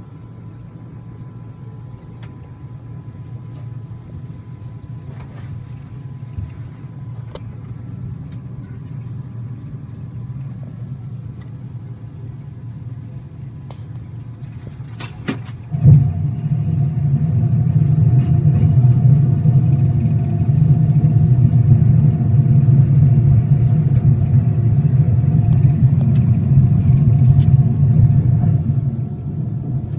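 Cockpit noise of an airplane gliding with its engines at idle: a steady low rumble that slowly grows. A few sharp clicks come about fifteen seconds in, and just after them the rumble jumps suddenly much louder with a steady tone in it, easing off a little near the end.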